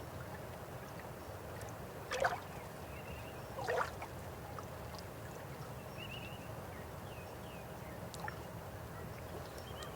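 River water flowing steadily, with two louder gurgling splashes about two and four seconds in.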